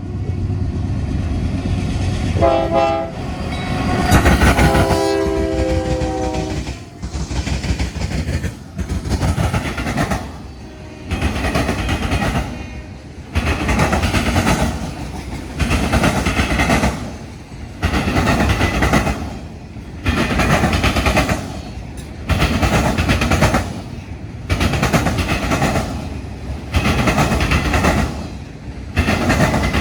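Union Pacific freight locomotives rumble past and their horn sounds a short blast about two seconds in, then a longer blast. A train of autorack cars follows, its wheel and rail noise swelling and dipping about every two seconds as each long car rolls by.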